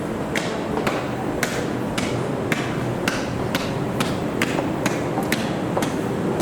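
Footsteps climbing a flight of stairs, about two steps a second, each footfall a sharp tap, over the steady hum of a busy railway station.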